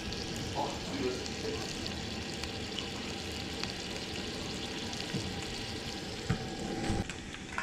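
Bacon and spinach sizzling in a skillet, a steady frying hiss, with a few light knocks in the second half.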